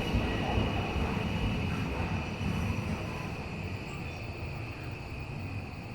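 Tokyo Metro 17000 series subway train running through a tunnel, heard from inside the car: a steady low rumble of wheels and running gear with a constant high hum, gradually getting quieter.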